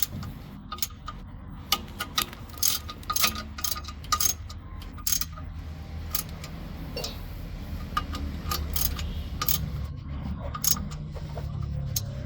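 Irregular metallic clinks and taps of tools and parts being handled during truck clutch work, over a low steady hum.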